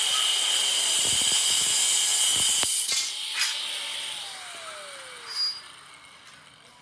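Handheld power tool cutting metal with a loud hiss that stops about two and a half seconds in. Its motor runs on and then winds down, falling in pitch, after about four seconds.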